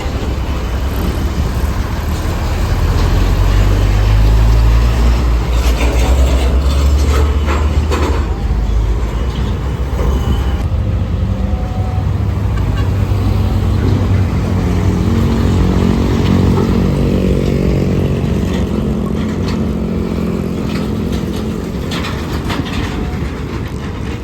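Heavy road traffic: a large vehicle's engine passes close with a deep rumble that peaks a few seconds in, then another engine drones with a slowly rising pitch as it pulls away.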